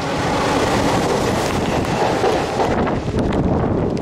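Passenger train running through a tunnel, heard from an open coach doorway: a loud, steady rush of wheels on rail and wind buffeting the microphone, easing a little about three seconds in as the train leaves the tunnel, with sharp clicks from the wheels near the end.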